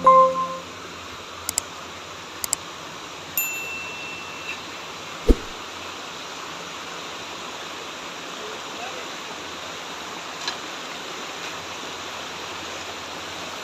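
Steady rushing of flowing water. It opens with a held chord of tones that cuts off about half a second in, and a few faint clicks and a single low thump come in the first few seconds.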